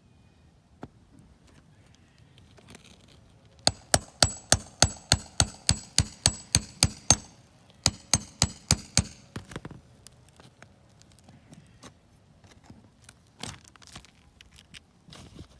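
Rapid hammer blows with a metallic ring, about four a second for a few seconds, then a short pause and a quicker burst of about six more. Scattered lighter knocks follow.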